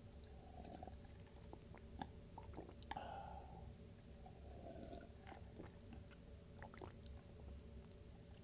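Close-miked chewing of a Mexican chicken bowl: soft wet mouth clicks and smacks, with a louder bite or smack about three seconds in.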